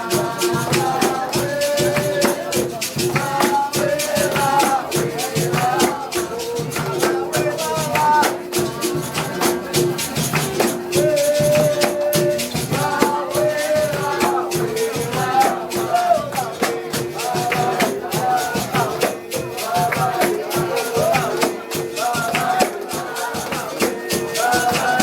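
Capoeira music: voices singing over steady, rhythmic percussion with shaken, jingling sounds, and a repeated note running through it.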